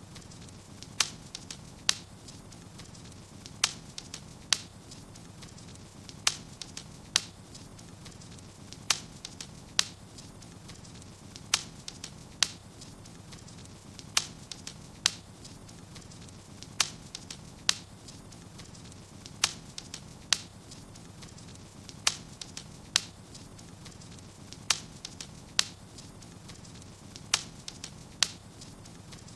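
Wood fire crackling in a fireplace: sharp pops over a low steady hiss, the pops coming in close pairs about every two and a half seconds.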